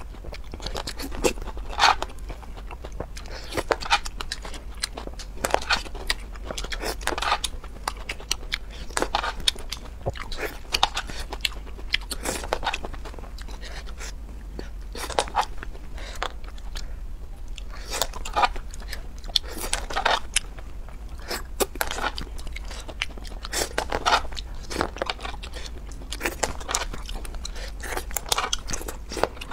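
Close-miked eating of grilled shellfish tails: repeated crunchy bites and chewing, with sharp crunches every second or two.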